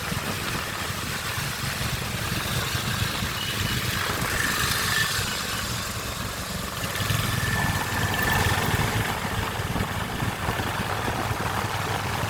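Royal Enfield Hunter 350's single-cylinder engine running with a steady low pulsing exhaust note, swelling somewhat louder about seven seconds in.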